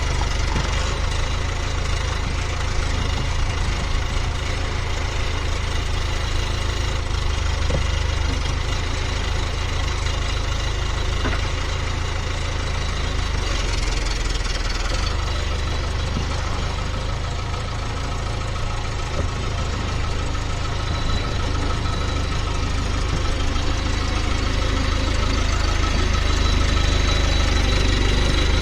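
Skid steer engine running steadily, its note shifting about halfway through and growing a little louder near the end.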